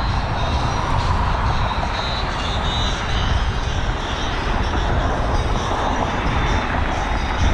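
Steady wind rumble and rush over an action camera's microphone while cycling, with no breaks or sudden sounds.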